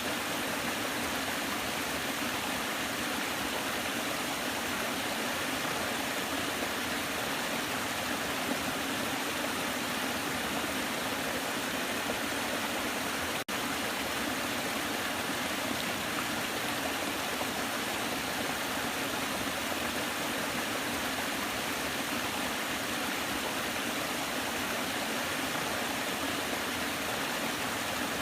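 Waterfall: water falling and rushing in a steady, unbroken hiss, with one brief click about halfway through.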